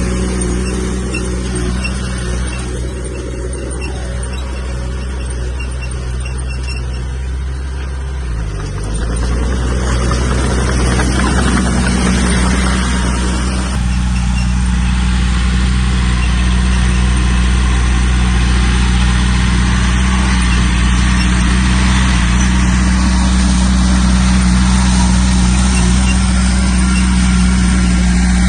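Komatsu bulldozer's diesel engine running steadily under work. About a third of the way through it bogs briefly, dropping in pitch and recovering. It then grows louder and stays loud, with added grinding noise, as it loads up pushing soil.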